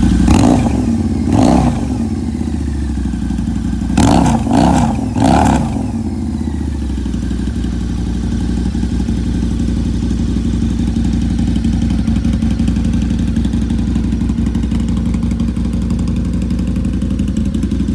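Harley-Davidson V-Rod CVO's liquid-cooled V-twin with a Bassani aftermarket exhaust, blipped five times: twice, then three quick blips in a row. After that it settles to a steady idle.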